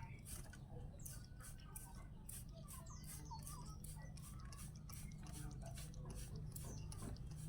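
Faint rapid clicking and ticking with a few short, high chirps, from a caged long-tailed shrike (cendet) moving about and calling softly.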